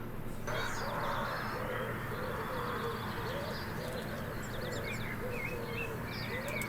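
Wood pigeon cooing, a run of low repeated coos, with small songbirds chirping higher up.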